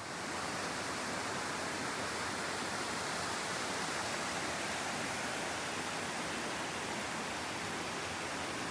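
Waterfall: falling water rushing in a steady, even roar that starts abruptly.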